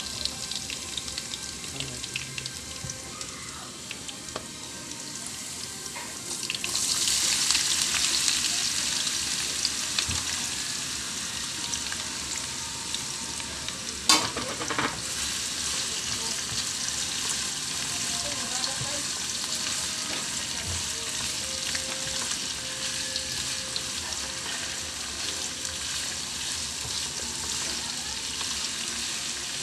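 Garlic and shallots sizzling in oil in a pan, stirred with a spatula. About a quarter of the way in the sizzling rises sharply as chayote strips go into the hot pan, and it carries on under the stirring. One sharp knock comes near the middle.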